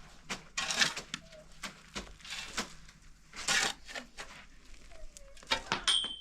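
A run of irregular knocks and cracks, several to the second, some sharper than others.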